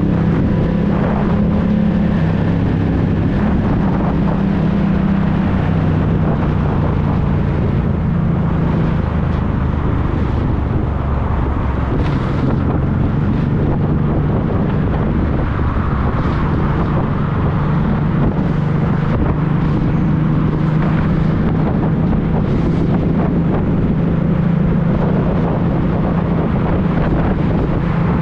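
Honda NT650V Deauville's V-twin engine running through an aftermarket Dominator exhaust while riding, with wind noise on the microphone. The engine note holds fairly steady, shifting in pitch a few times as the revs change.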